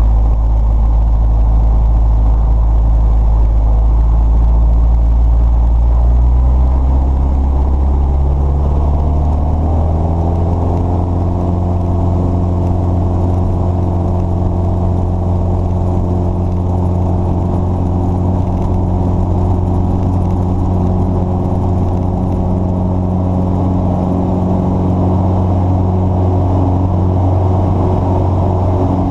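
An engine running, its pitch climbing over a few seconds about a quarter of the way in, then holding steady at the higher speed.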